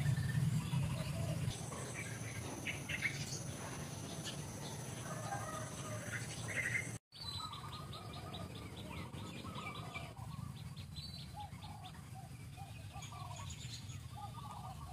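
Wild birds chirping and calling over a steady low background rumble. The sound drops out for an instant about halfway through, after which a rapid ticking trill and a run of short repeated calls follow.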